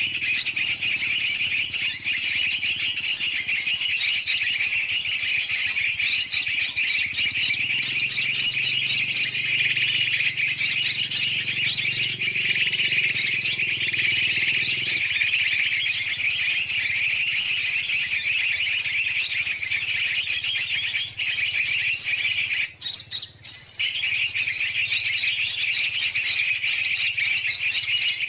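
Bird-lure recording of many birds, large and small, chirping and chattering densely and without pause, with a brief break about 23 seconds in.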